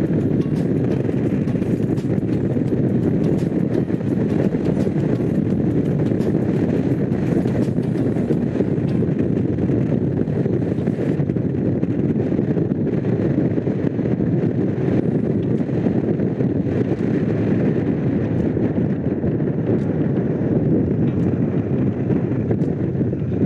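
Honda CX500's liquid-cooled V-twin engine running at a steady cruise while the motorcycle is ridden, with wind noise on the microphone.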